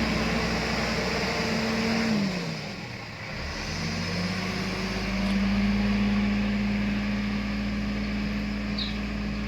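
Escorts Digmax backhoe loader's diesel engine running under work. Its revs drop about two seconds in, then climb back and hold steady from about five seconds in.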